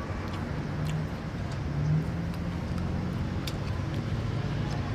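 Low steady rumble with a faint wavering hum and a few faint clicks.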